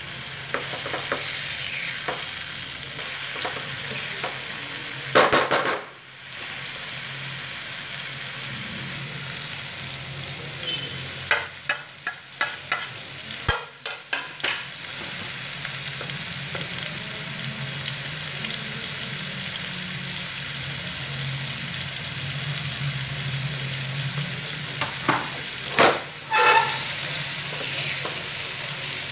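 Chopped onion and tomato sizzling in hot oil in a non-stick frying pan while being stirred with a silicone spatula, frying the masala for a dal tadka. A steady hiss, with clusters of spatula scrapes and taps against the pan about five seconds in, around twelve to fourteen seconds in, and near twenty-six seconds in.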